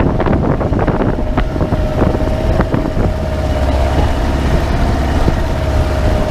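A small engine running steadily, with a held hum and a low rumble, while wind buffets the microphone in short knocks.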